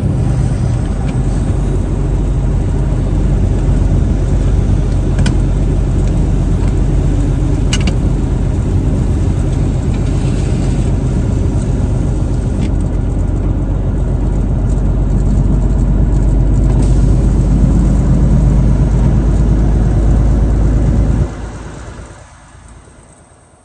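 Truck driving along: a steady low engine drone with road noise. It cuts off sharply about 21 seconds in and fades away.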